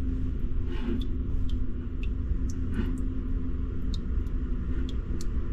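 A steady low motor hum and rumble, with a few small clicks and taps over it.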